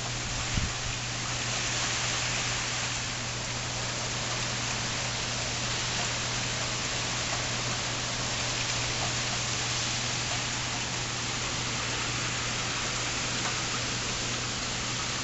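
Steady rain from Hurricane Irene, a continuous even hiss.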